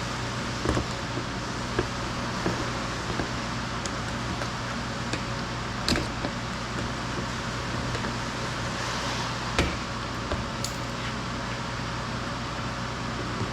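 Steady low mechanical hum with a hiss of background noise, broken by a few short, sharp clicks and knocks, the loudest about six seconds in and near ten seconds in: ambient workshop noise with tools being handled.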